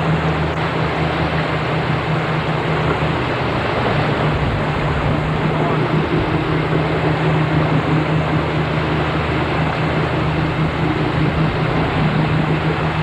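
Boat engine running steadily under way, a constant low hum, mixed with a rush of wind and water noise.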